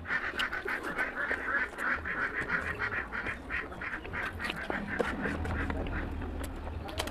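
Close-up wet chewing and lip smacking while eating oily curry, with many quick smacks and squelches that are densest in the first few seconds.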